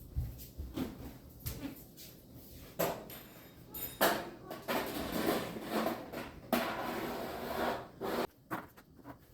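Dehydrator trays being handled: a run of clicks and knocks with two longer stretches of scraping, like a tray being slid and set in place.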